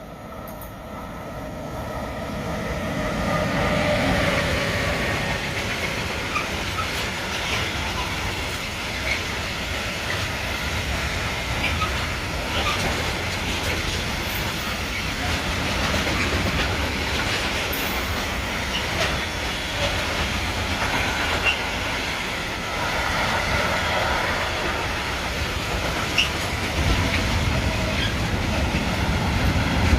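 Electric locomotive hauling a mixed freight train past: a motor whine as it approaches, then wagons rolling by with steady wheel rumble and rhythmic clicking over rail joints.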